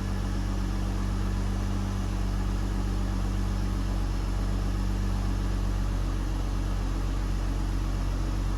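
2006 Mercedes-Benz C230's engine idling steadily, less than a minute after a cold start.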